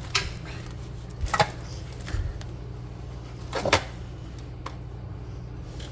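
Three short knocks and clicks from fitting a replacement handle onto a microwave door with a screwdriver, over a steady low hum.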